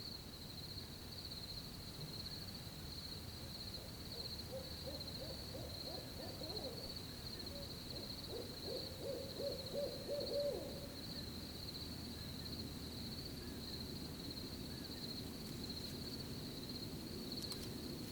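An owl hooting in two runs of quick, low hoots, the second louder and ending about two-thirds of the way in, over the steady high chirring of crickets.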